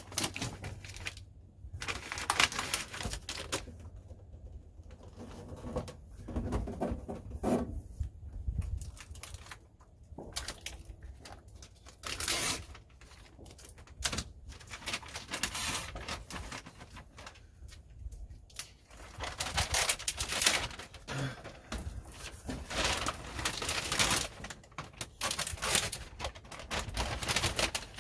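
Sound-deadening mat being handled and pressed into place on a truck cab floor: irregular bursts of rustling, crinkling and tapping.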